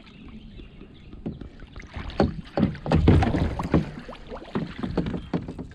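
Water splashing in a quick irregular run as a hooked bass thrashes at the surface beside a kayak while it is being brought up, loudest around the middle.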